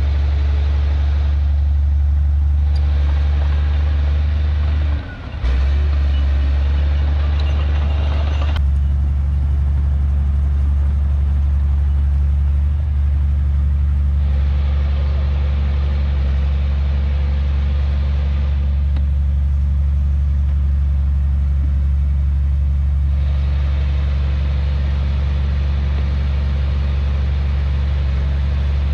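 Heavy diesel engine of earthmoving machinery running steadily with a deep low hum, briefly dropping away about five seconds in before returning.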